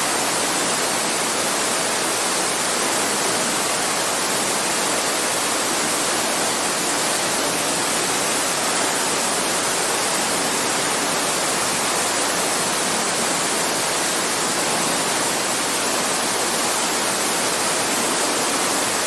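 Babbling creek: water running steadily with an even rushing hiss.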